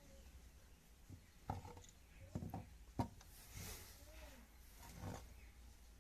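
A handful of faint knocks and clicks, irregularly spaced, with soft rising-and-falling calls in the background.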